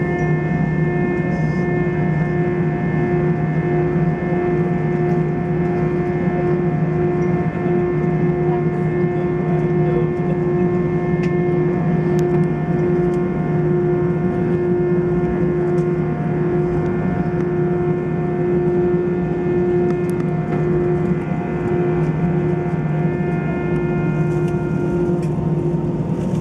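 Airbus A320's CFM56 jet engines running, heard inside the passenger cabin: a loud, steady drone with several steady tones, the strongest a low hum and a hum about an octave above it.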